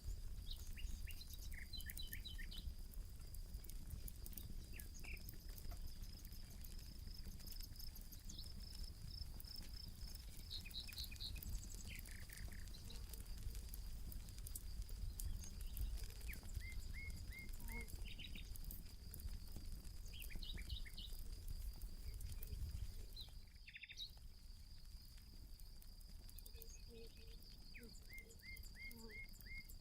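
Campfire crackling in soft clicks, with birds calling in short runs of quick chirps over a steady high-pitched insect trill and a low rumble. Everything drops out for a moment about three-quarters of the way through.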